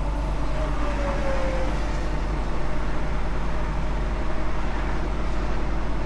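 Steady engine and road noise inside a semi truck's cab, with a faint falling whine about a second in.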